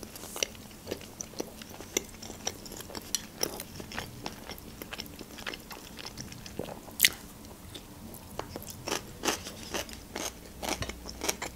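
Chewing a mouthful of fried pelmeni, heard as many small quick clicks and smacks, with one sharper crunch about seven seconds in as a slice of fresh cucumber is bitten.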